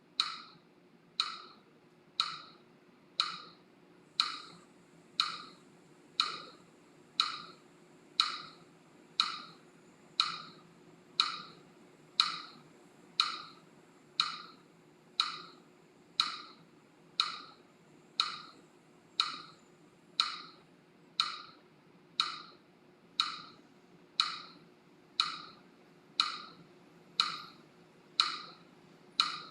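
Kapalabhati breathing: short, sharp forced exhales through the nose at a steady pace of about one a second, each fading quickly.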